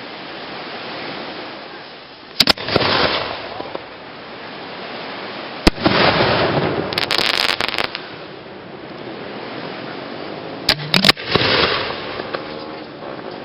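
Fireworks going off: sharp bangs about two and a half, five and a half and eleven seconds in, the later ones in quick clusters, each followed by a second or two of crackling hiss, over a steady rushing background.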